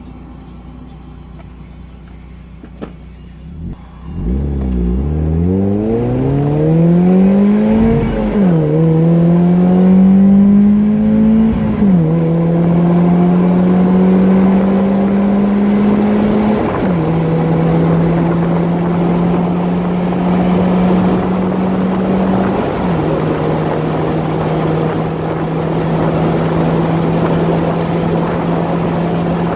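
2002 Mazda Miata's 1.8-litre four-cylinder engine running through a catless exhaust with a Goodwin Racing Roadster Sport 3 muffler, baffle removed. It is low and steady for about four seconds, then revs climb hard under full throttle, with quick upshifts about eight and twelve seconds in. Two more upshifts come before it settles into a steady highway cruise, with wind noise from the open top.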